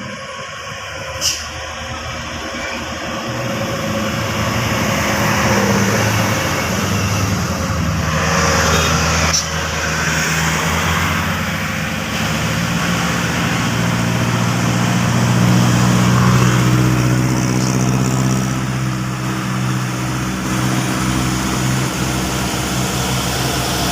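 Heavy diesel truck engine running at low, steady revs as the truck creeps slowly down a hill, growing louder as it draws near. There is a sharp click about a second in and a short hiss around the middle.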